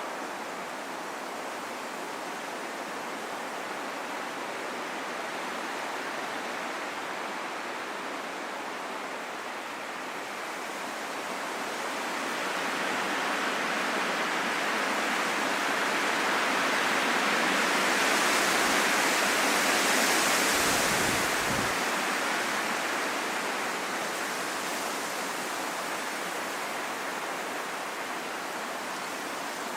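Strong wind blowing as a steady rushing noise, with a gust that builds about ten seconds in, peaks near the middle and dies back down.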